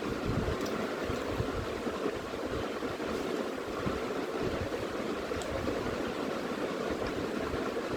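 Steady rushing background noise with a few faint clicks scattered through it.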